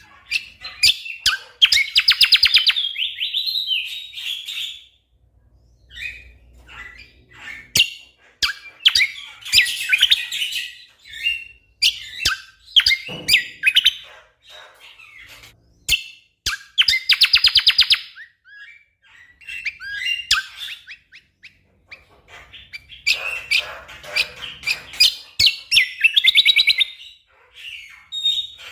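Cucak kombo songbird singing in rapid-fire bursts of fast trills and sharp chirps, phrase after phrase with short pauses between them.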